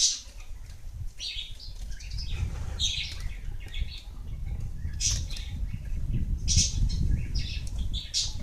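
Gelatik wingko birds giving short, repeated chirps, with wings fluttering and a low rumble underneath that grows louder in the second half.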